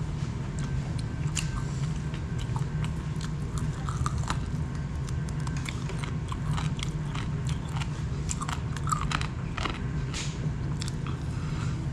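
A person chewing chicken biryani and gnawing meat off a chicken drumstick bone, close up: irregular short mouth clicks, over a steady low hum.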